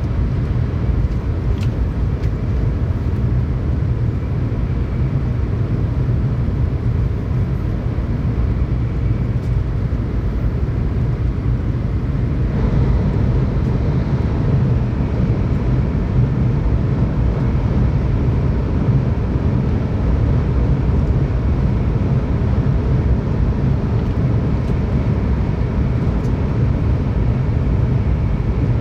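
Steady running noise inside a Shinkansen passenger car at speed: a deep, even rumble with a rushing hiss over it, growing slightly louder about halfway through.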